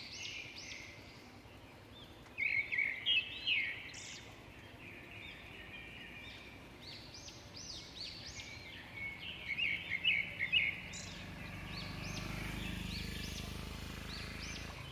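Birds calling, a busy run of quick chirps that rise and fall in pitch, coming in clusters about two and a half seconds in and again around ten seconds. A low rumble builds in the last few seconds.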